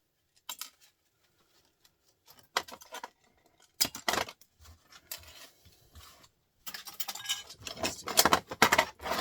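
Hand tools and small metal motor parts clinking and scraping as copper windings are pulled out of a printer motor: scattered clicks at first, then a busy cluster of clattering over the last couple of seconds.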